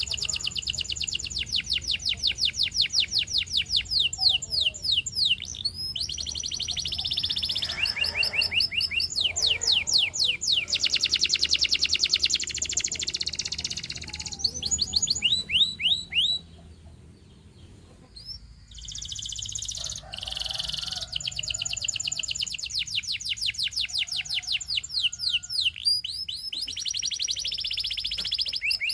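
Domestic canary singing: long runs of rapid, high-pitched repeated chirps and rolling trills, broken by a pause of about two seconds midway.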